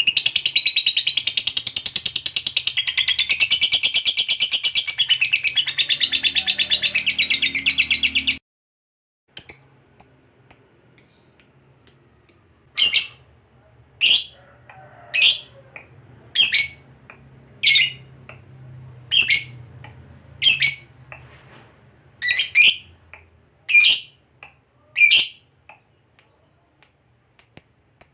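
Lovebird singing its long, rapid chattering trill (the 'ngekek panjang' song), which breaks off suddenly about eight seconds in. After a short gap come short, sharp, high chirps, with louder calls about once a second.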